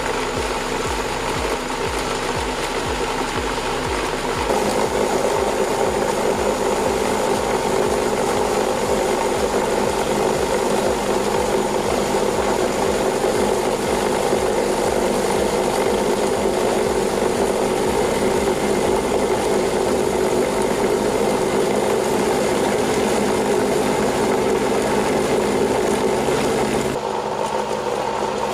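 A machine running steadily with a mechanical clatter, changing abruptly about four and a half seconds in and again near the end.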